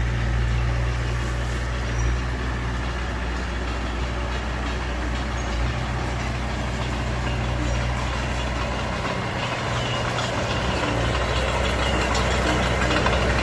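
Heavy diesel engine of earth-moving machinery running steadily under work, with a deep, even hum and a mechanical clatter over it, getting somewhat louder near the end.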